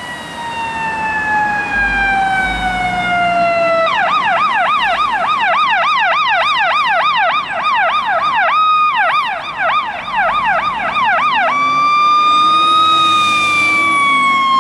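Fire engine siren: a slow wail falling in pitch, switching about four seconds in to a fast yelp of about three rises a second, with a brief break partway, then going back to a slow wail that rises briefly and falls away.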